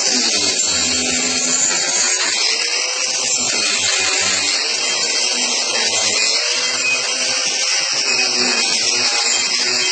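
Angle grinder fitted with a worn, coarse Saburtooth carbide carving wheel that is missing some of its teeth, running continuously as it cuts into wood. It makes a steady, loud grinding hiss, and its lower pitch wavers as the wheel bites and eases off.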